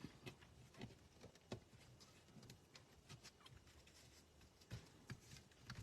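Faint, scattered taps and light rustles of die-cut cardstock pieces being handled and set down on a card.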